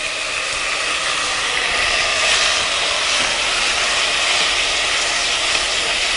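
Blanched, chopped tomatoes (concassé) sizzling in hot olive oil in a saucepan as they are stirred with a wooden spoon: a steady hiss that builds over the first couple of seconds and then holds.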